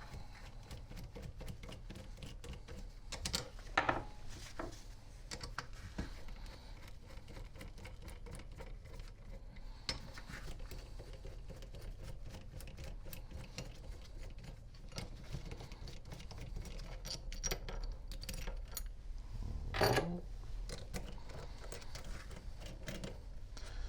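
Scattered light clicks and rattles of small metal parts and hand tools as the back cover of a power steering pump is unbolted and taken off, with two louder knocks, one about four seconds in and one near twenty seconds.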